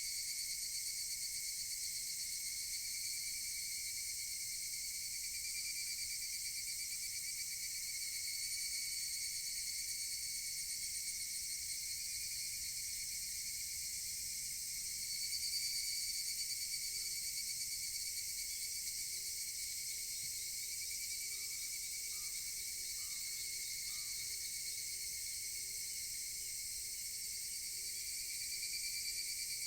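Dense, steady chorus of higurashi (evening cicadas) shrilling high, swelling a little louder about halfway through. Faint, low repeated notes come in during the second half.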